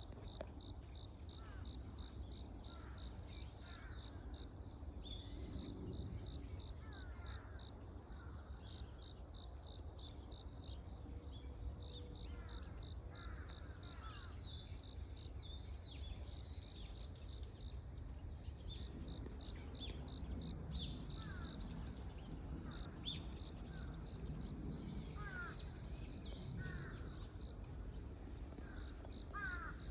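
An insect chirping in a steady pulse, about four chirps a second, in long runs, with clusters of short bird calls now and then over a low steady rumble.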